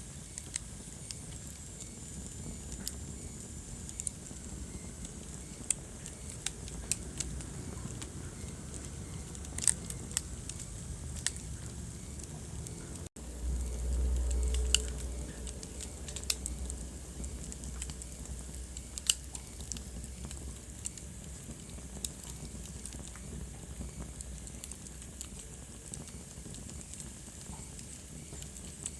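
Wood fire crackling in a fireplace: a steady low hiss of burning logs broken by scattered sharp pops and snaps. About thirteen seconds in, the sound cuts out for an instant, then a low rumble swells for a couple of seconds before the crackling goes on.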